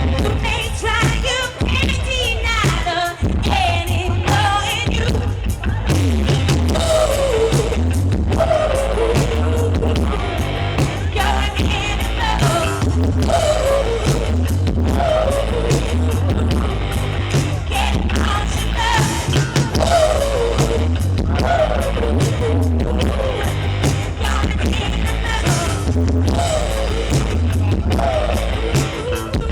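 Live band playing loudly with a heavy, booming bass line and steady drums, and a female lead vocalist singing over them.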